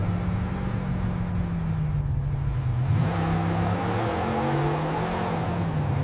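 Car engine running and revving, its pitch wavering up and down, with a rush of broader noise building about halfway through.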